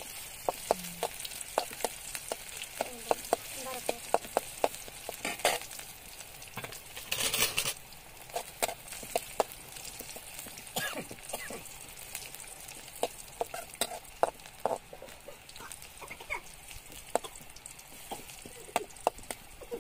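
Food sizzling in oil in a metal wok over a wood fire, with a metal ladle clinking and scraping against the pan many times as it is stirred. A louder burst of noise lasts about a second, about seven seconds in.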